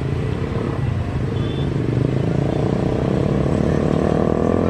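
Engine noise with a low rumble, its pitch rising slowly and its level growing from about two seconds in.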